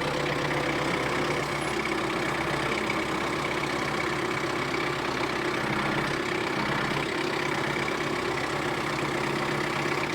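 Diesel tractor engine running steadily, with slight changes in tone around the middle, while the loader rolls a large tree stump out of its hole.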